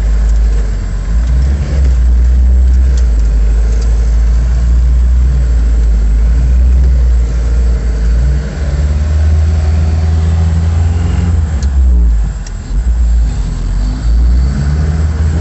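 LuAZ off-roader's VAZ-21083 four-cylinder petrol engine running as the vehicle is driven, its note rising and falling with the throttle, with a brief drop in level about twelve seconds in.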